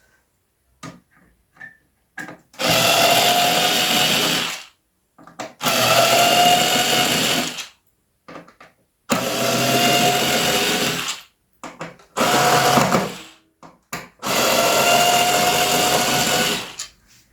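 Electric screwdriver running in five short bursts of about two seconds each, its motor whine rising slightly in each run, as it turns out the keyboard case's long, thin screws.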